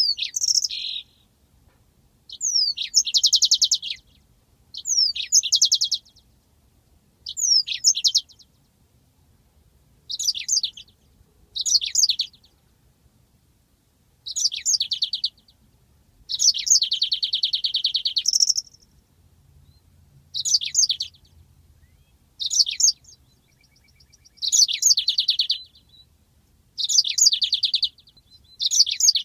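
Yellow-fronted canary (Mozambique canary) singing a long-rolling song: high phrases repeated every two to three seconds, each opening with a quick falling note and running into a rapid trill. The longest roll lasts about two seconds, a little past the middle.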